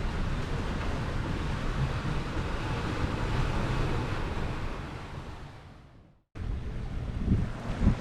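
Wind rushing over the microphone and sea noise aboard a sailing yacht under way in strong wind. It fades out about six seconds in, goes briefly silent, then starts again abruptly with a few knocks.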